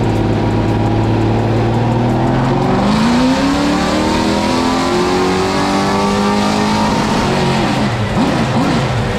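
GM 604 crate small-block V8 making a chassis-dyno pull, with ignition timing advanced to 36 degrees for this tuning run. It runs steady for about three seconds, then the revs climb steadily. A little past seven seconds in, the revs fall away and waver as the throttle comes off.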